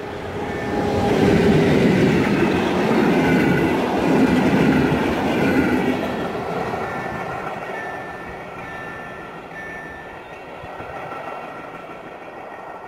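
A passing passenger train hauled by an EU06 electric locomotive: the rumble of wheels on the rails swells to its loudest in the first few seconds as the locomotive and coaches go by, with a thin high ringing above it, then fades steadily as the train moves away.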